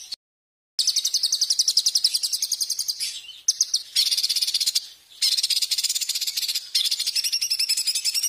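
Songbird masteran recording: fast trills of rapidly repeated high-pitched notes, spliced with a sudden dead-silent gap just after the start and brief dips about three and five seconds in.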